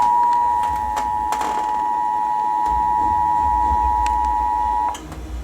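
Emergency Alert System two-tone attention signal (about 853 and 960 Hz together) on a NOAA Weather Radio broadcast. It holds one steady pitch and cuts off suddenly about five seconds in. It announces an incoming warning, here a special marine warning for a strong thunderstorm.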